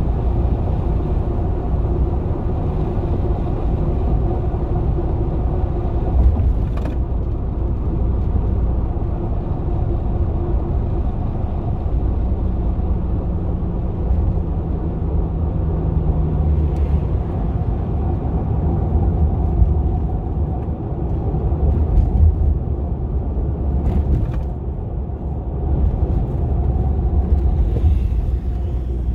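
V8 engine of a GMC Vandura / Chevrolet G20 van running steadily while driving, a continuous low rumble. A few short clicks come through now and then.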